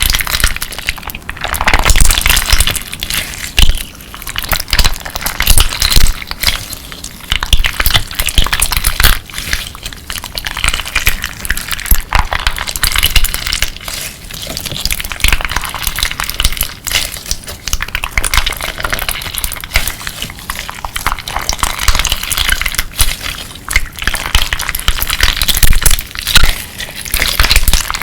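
Clear slime mixed with colourful crunchy crystals being worked by hand: a dense, continuous crackling and clicking that swells and eases every second or two.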